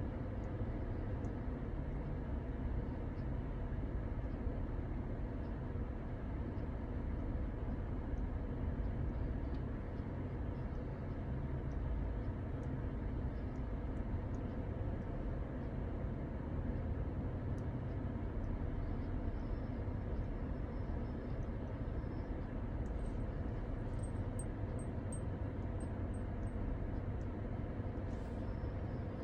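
Steady low rumble of a car, even throughout, with a few faint high chirps near the end.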